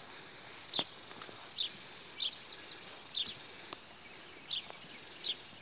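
A bird calling over and over outdoors: short, high chirps that each drop in pitch, about six in a row, with a sharp click or two among them.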